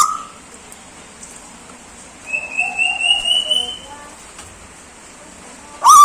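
A person whistles one long note that rises slowly in pitch. Near the end the bird answers with a loud double call, two short hooked notes.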